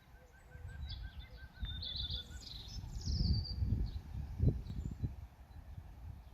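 Several birds singing and chirping, one repeating a quick run of short chirps for the first couple of seconds. Under the birdsong, wind buffets the microphone in low rumbling gusts, and these gusts are the loudest sound.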